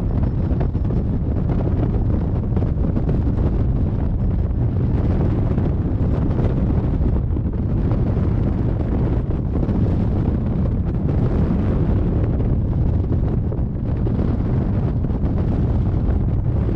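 Steady, loud wind rushing and buffeting over the microphone of a camera riding on a hang glider in flight.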